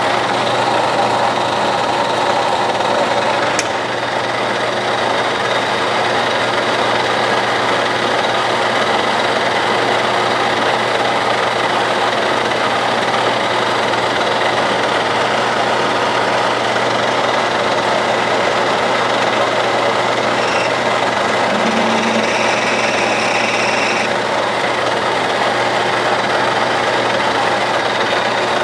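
Clausing Colchester 1340 metal lathe running steadily at high spindle speed while taking a light finishing cut of about one thousandth of an inch, with an even hum. A single sharp click about three and a half seconds in.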